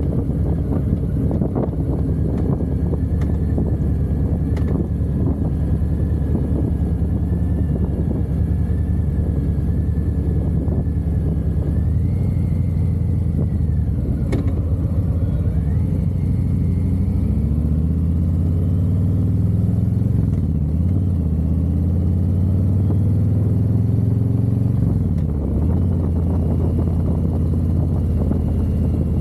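Harley-Davidson V-twin engine running at steady low revs, then accelerating from a little past halfway, its pitch climbing twice as it shifts up before easing back near the end.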